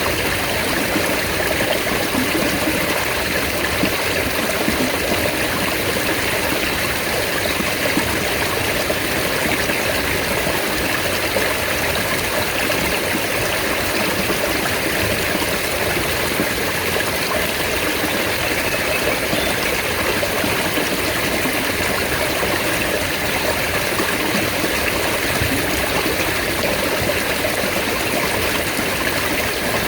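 Mountain stream water flowing steadily, an even, continuous rush without breaks.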